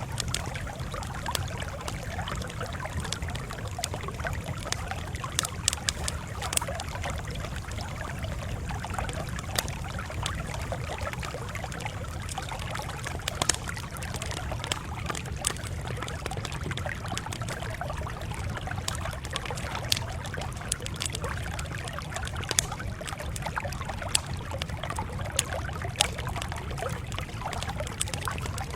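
Wood fire crackling: a steady low rush with sharp pops and snaps scattered irregularly throughout.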